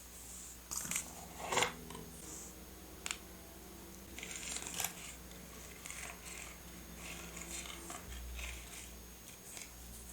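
Scissors snipping paper in a few short cuts, with paper rustling and light handling clicks between them.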